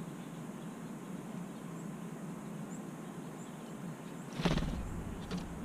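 Faint, short, high chirps of small birds over a steady low background rumble, with a brief loud bump or rustle about four and a half seconds in and a smaller one near the end.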